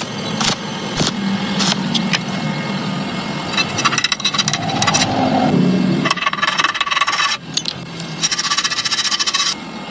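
Stick welding arc crackling and spitting in three runs of a couple of seconds each, with short breaks between them, as is usual when welding thin tubing in short bursts to avoid burning through. Scattered sharp clicks come before the first run, and a low hum lies underneath.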